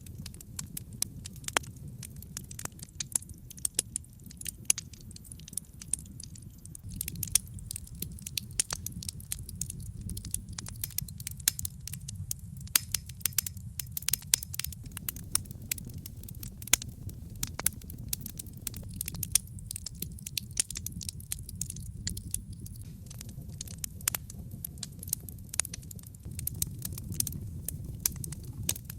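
Wood logs burning in a fireplace, crackling with many irregular sharp pops, some loud, over a steady low rumble of the flames.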